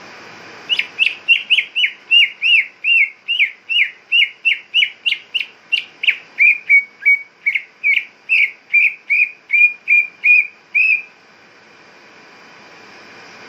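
Cucak ijo (green leafbird) calling: a fast series of about two dozen sharp, whistled, down-slurred notes, a little over two a second. The notes stop abruptly about eleven seconds in, over a steady background hiss.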